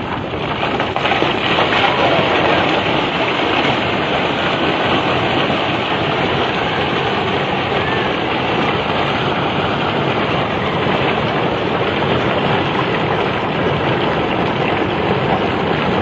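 A flood of water and stones rushing past in a steady, dense noise.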